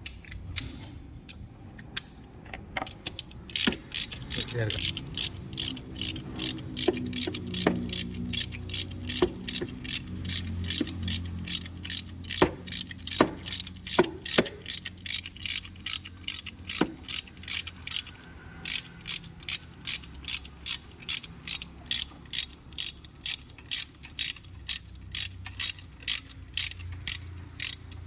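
Ratchet wrench clicking steadily, about three clicks a second, as a bolt is turned on a Renault Kwid engine during a head gasket job. There is a brief pause a little past halfway and a few sharper knocks of metal on metal around the middle.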